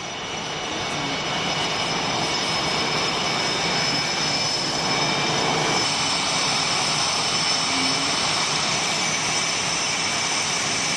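Jet fighter engine noise: a steady rush with a high whine on top, building over the first couple of seconds and then holding steady.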